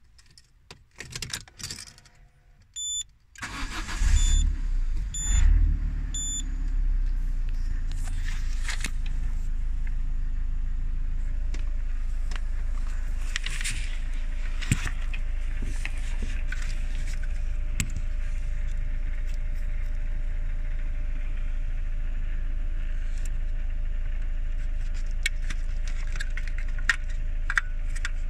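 Peugeot 307's engine started with the key: a few clicks and key jingle, then it catches about three seconds in while the dashboard gives four short beeps, and settles into a steady idle. Scattered clicks and handling noises sit over the idle later on.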